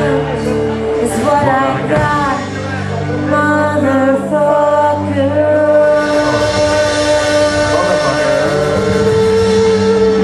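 Live band playing, with sung vocals over sustained instrumental chords.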